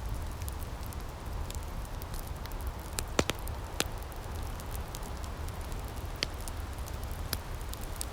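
Outdoor wood fire crackling, with scattered sharp pops over a steady low rumble.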